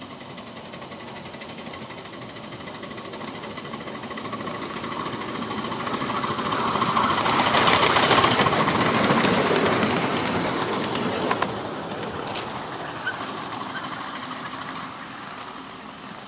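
A 7.5-inch gauge miniature live steam train passing by, growing louder to a peak about halfway through and then fading as it moves away, with a few sharp clicks from the wheels and track as it recedes.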